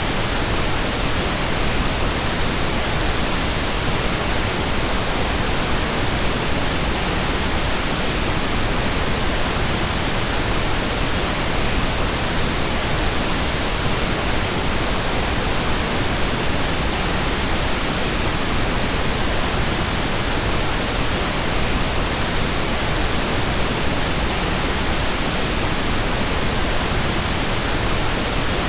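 Steady synthetic pink noise: an even, unchanging hiss spread over all pitches, without breaks or events.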